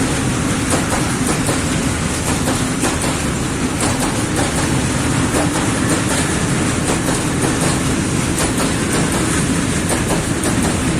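Freight train of open coal wagons rolling past, its wheels clacking steadily over rail joints.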